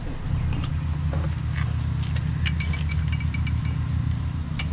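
A steady low engine drone runs throughout, with several light metallic clinks and rattles of hand tools and press-kit parts being handled.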